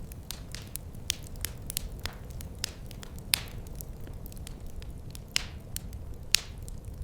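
Wood fire crackling, with irregular sharp snaps and a few louder pops over a low, steady rumble.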